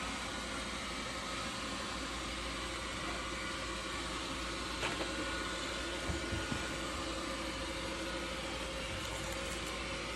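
Robotic vacuum cleaner running steadily, its motor and fan making an even whirring hum, with a couple of faint clicks about halfway through.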